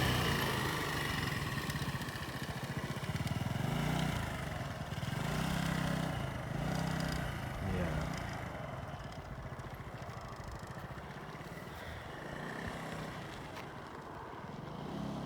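Motorcycle engine running as it is ridden through a practice exercise. The engine note swells and fades a few times as the rider opens and closes the throttle, then settles lower in the second half.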